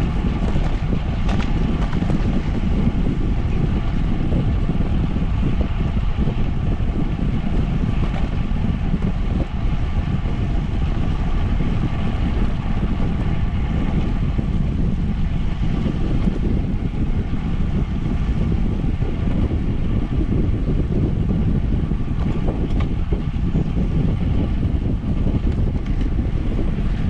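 Wind buffeting the microphone of a bicycle rider's camera while riding: a steady low rumble that does not let up.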